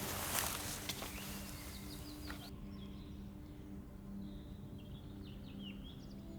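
Faint forest birdsong: scattered short chirps and calls, several falling in pitch. In the first couple of seconds a rustling hiss covers it, then stops abruptly.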